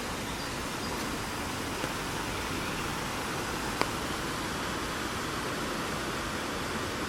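Heavy rain falling on an umbrella: a steady hiss of drops, with a couple of sharper single drop hits, about a second in and near four seconds in.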